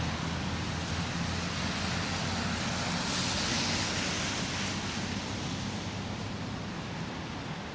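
Street traffic noise: vehicles passing with a low engine rumble and tyre hiss. One swells loudest about three seconds in, then the noise slowly fades.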